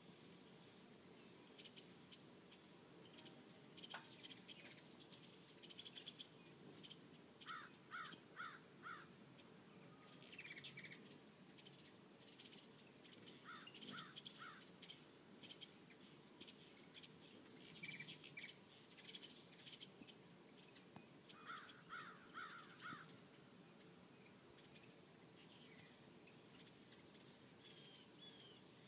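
Faint birds chirping now and then: short runs of four or five quick notes, with scattered thin high chips between them, over a faint steady hiss.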